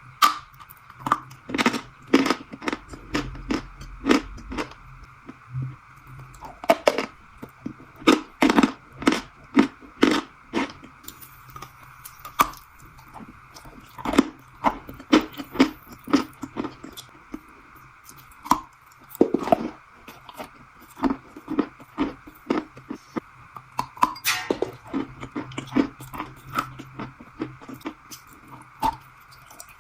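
Crunchy food being chewed up close: repeated sharp crunches, several a second, over a steady background hum.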